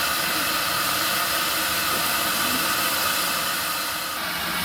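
Steam escaping from a narrow-gauge steam locomotive standing at rest, a steady hiss with no chuffing.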